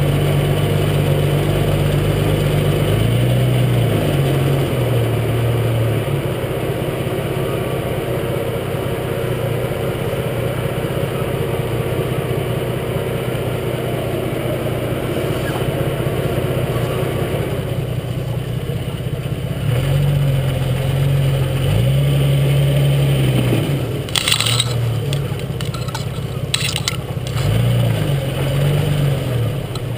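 Jeep Cherokee XJ engine running under load and revving up and down as it crawls off-road, heard from beneath the front axle. A few sharp knocks and scrapes come about three quarters of the way through.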